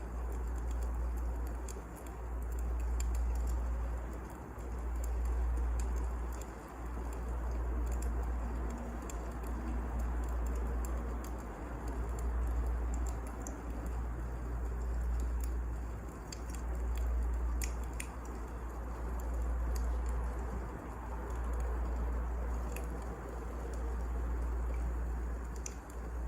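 Wood fire crackling, with scattered sharp pops and ticks over a low rumble that swells and fades about every two seconds.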